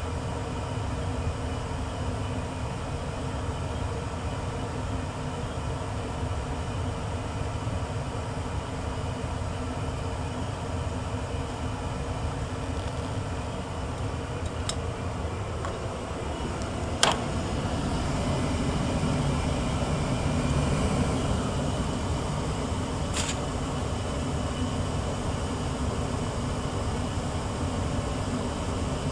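A 1994 Tempstar SP80 gas furnace running steadily just after its first startup of the season. A sharp click comes a little past halfway, after which the running sound gets somewhat louder and deeper.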